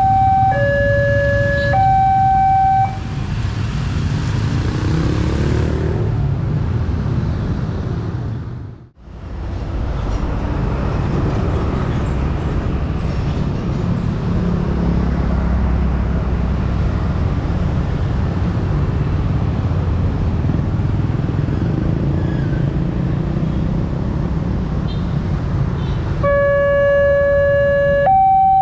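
Railway level-crossing electronic alarm sounding two alternating tones, each about a second long, which stops about three seconds in. A steady rumble of passing vehicles follows, and the two-tone alarm starts again near the end.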